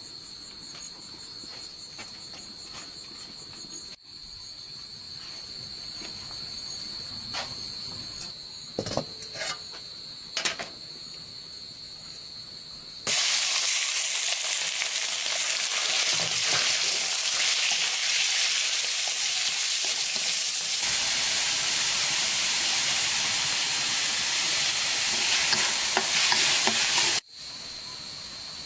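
Food stir-frying in hot oil: a loud, even sizzle starts suddenly about halfway through and cuts off abruptly near the end. Before it, crickets chirr steadily, with a few short knocks.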